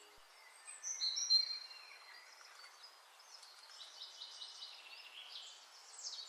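Birdsong over a faint background hiss: a few high whistled calls about a second in, the loudest part, then a run of quick chirps. The tail of music stops right at the start.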